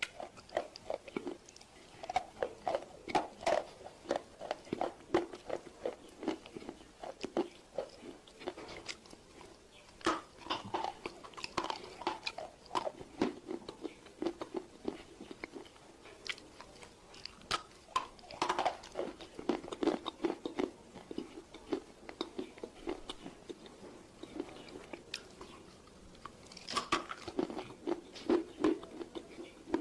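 Close-miked chewing of dry roasted Nakumatt clay: crisp, rapid crunches in runs of several a second, with a few louder sharp bites.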